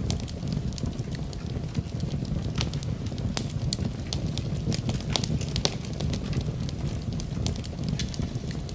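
Wood fire crackling in a fireplace: many sharp pops and snaps at irregular moments over a steady low rumble.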